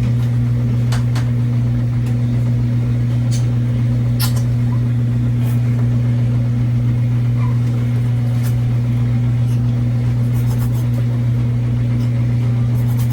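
A loud, steady low hum with an even pitch, with a few faint short clicks and rustles over it.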